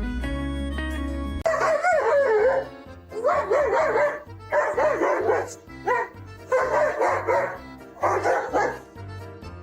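Background music cuts off about a second and a half in, then a dog vocalizes in five drawn-out, wavering yowls of about a second each, its pitch bending up and down, with faint music underneath.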